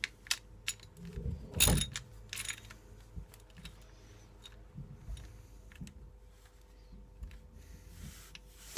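Metal hand tools and bolts clinking and tapping during work on a motorcycle's oil pan, with one louder scrape-and-thump between one and two seconds in and scattered lighter clicks after.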